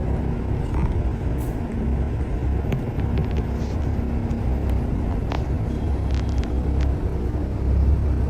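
City street traffic: a steady low rumble of cars and other road vehicles, with a few faint clicks.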